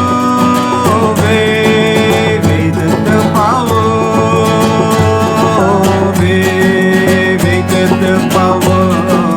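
Music: a strummed acoustic guitar with long held melody notes over it.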